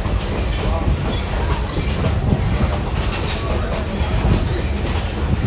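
Railway passenger car rolling along the track: a steady low rumble of wheels on rails, with frequent knocks and rattles as the coach rides rough track.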